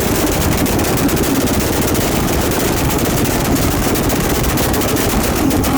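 A car engine held on a two-step launch-control rev limiter, its exhaust popping and banging in a loud, rapid, unbroken string of pops.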